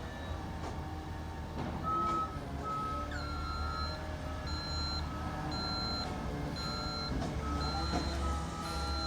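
McNeilus ZR refuse truck's diesel engine running while its warning beeper sounds, starting about two seconds in and repeating at about one beep a second.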